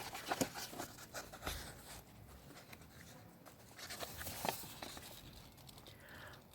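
Faint rustling and a few soft clicks and taps of a paper picture book being handled and opened before reading.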